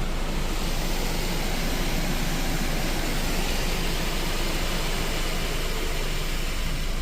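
Proto-Vest car wash dryer blowers running, heard from inside the car: a steady rushing of air that swells within about the first second, then holds.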